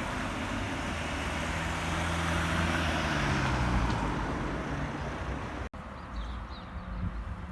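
Road traffic: a motor vehicle passes close by, its engine and tyre noise swelling and then fading. After a sudden cut about two thirds of the way in, the sound is quieter, with a few faint bird chirps.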